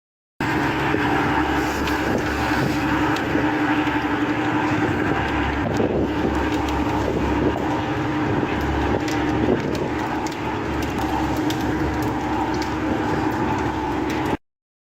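Steady drone of a running engine, a constant mechanical hum with little change in pitch or level.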